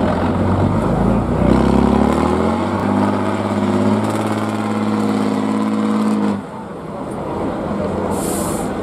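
Competition trial truck's diesel engine revving up, its pitch rising over a second or so and then held high for a few seconds before dropping off suddenly. A short hiss of air comes near the end.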